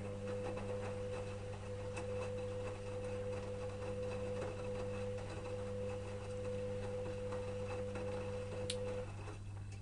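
Electrolux EWS 1045 washing machine mid-wash: its motor turns the drum with a steady whine that stops about nine seconds in. Faint clicks and crackles run along with it, over a low steady hum.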